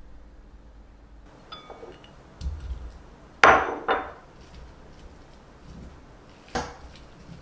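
Hard objects handled and set down: a few light ringing clinks like glass, a dull thud, then two sharp knocks close together about three and a half seconds in, and one more knock near the end.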